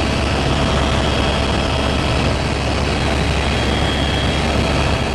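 Helicopter cabin noise in flight: a steady, loud drone of turbine and rotor with a faint high whine held on one pitch.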